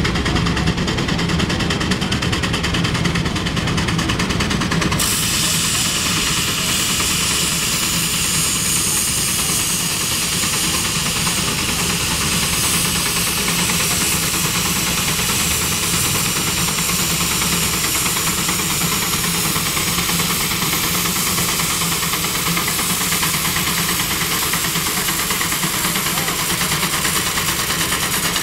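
Steam traction engine running, with a loud, steady hiss of steam that comes in suddenly about five seconds in.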